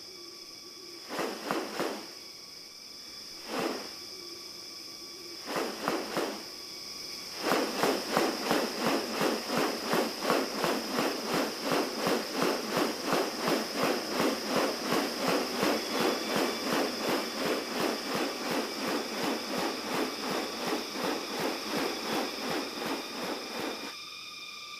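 New Guinea rainforest ambience: a steady high insect drone, with a few short groups of rasping pulses, then from about seven seconds in a long run of rapid, evenly spaced pulses, about three a second, that stops shortly before the end.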